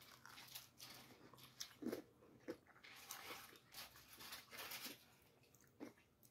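A person biting into a crispy-coated fried chicken wing and chewing it: faint, irregular crunches and mouth sounds, the loudest crunches about two seconds in.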